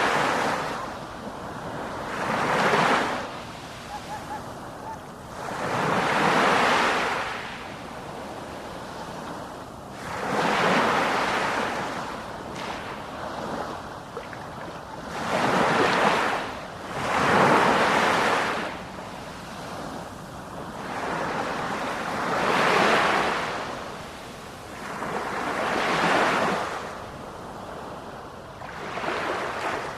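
Ocean waves breaking in a steady rhythm, a surge of surf rising and falling about every three to four seconds.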